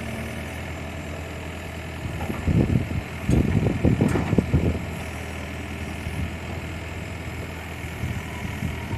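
A 5.5-tonne mini excavator's diesel engine running steadily at idle, with a run of loud low thumps for a couple of seconds about two and a half seconds in.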